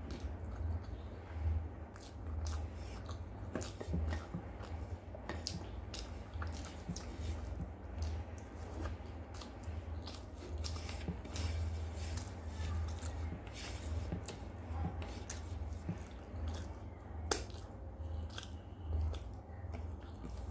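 Close-miked eating sounds: wet chewing, lip smacks and mouth clicks as a person eats rice mixed by hand with mustard-gravy fish, with short sharp clicks throughout over a steady low hum.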